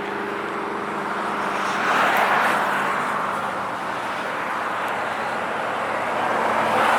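Cars driving past one after another. An engine's steady low hum fades out over the first two seconds, then a rushing noise swells around two seconds in and again near the end as more cars go by.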